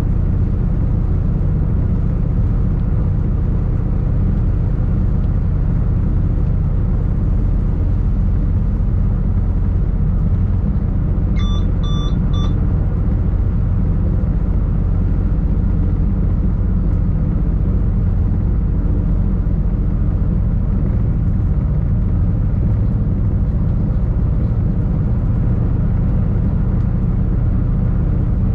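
Running noise of an SBB ICN tilting train at speed, heard from the driver's cab: a steady low rumble of wheels on rails. About twelve seconds in comes a brief run of short electronic beeps.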